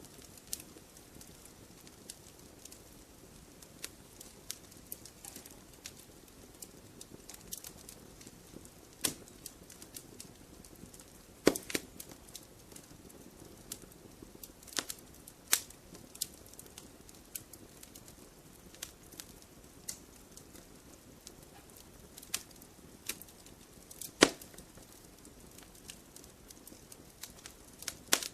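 Fire crackling in a fireplace: a steady low rush with scattered sharp pops, the loudest about a third of the way in and again near the end.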